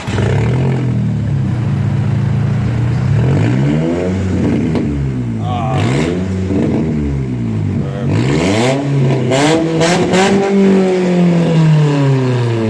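Nissan Sentra SE-R's four-cylinder engine running with no exhaust, straight off the headers, loud and raspy: it fires up at the start and is then revved up and down several times, with a few sharp cracks in the middle, before the revs fall away near the end.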